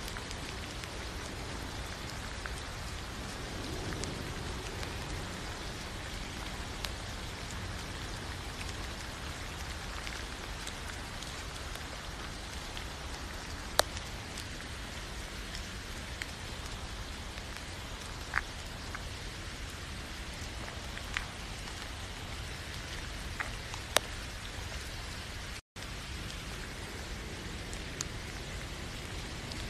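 Steady rainfall, with now and then a single louder drop ticking sharply. The sound cuts out for a split second near the end.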